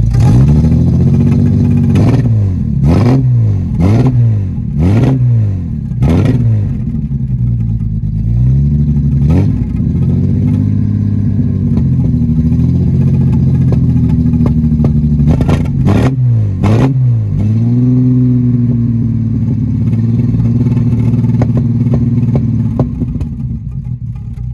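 1968 Jaguar E-Type's inline-six engine revved in a run of quick throttle blips, each rising and falling within about a second. Between blips and toward the end it settles into steady running.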